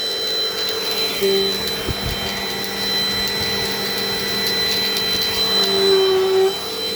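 Dirt Devil Dynamite Plus vacuum cleaner running steadily with a whine, its lower hum shifting in pitch now and then, with small clicks and one low thump about two seconds in.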